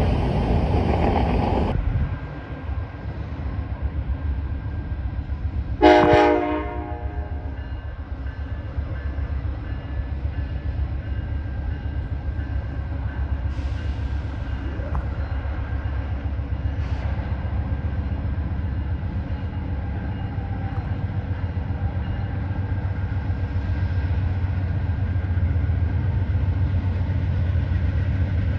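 Diesel locomotive rumbling low and steady as a train runs, with one short horn blast about six seconds in. The rumble grows slightly louder near the end.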